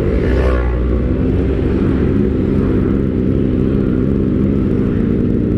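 Kawasaki ZX-25R's inline-four engine with an Austin Racing aftermarket silencer idling. The revs waver briefly in the first second, then settle to a steady idle.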